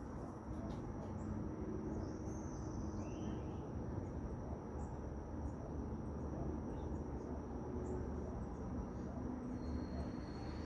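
Insect, cricket-like, giving one steady high-pitched trill throughout, over a low rumbling background noise, with a few brief chirps about three seconds in. A second, slightly lower steady tone joins near the end.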